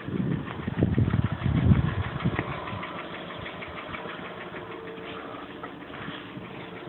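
VW Golf Mk4 engine heard from inside the car, revved in a few surges over the first two and a half seconds and then dropping back to idle, with a rapid repeated knocking running through it. The knock is an undiagnosed fault that the owner is asking about.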